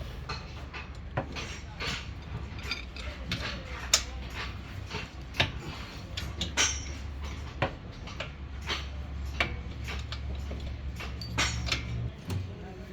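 Irregular metallic clinks and knocks of tools and metal parts being handled, over a steady low hum that stops near the end.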